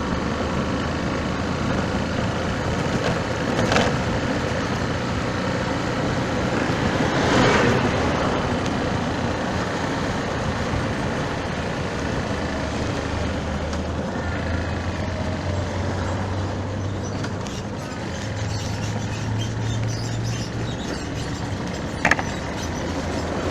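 Road traffic: cars and trucks running and passing, with a louder vehicle going by about seven seconds in, over steady wind noise.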